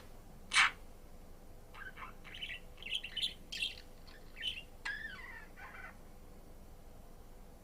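Budgerigar chirping: one loud chirp near the start, then a quick run of short chirps and warbled notes with one falling call, stopping about six seconds in.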